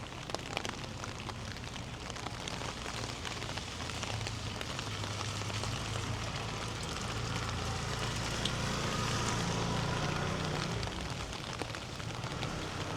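Rain falling steadily, with a hiss dotted with the ticks of individual drops, over a low steady rumble. It grows a little louder toward the middle, then eases.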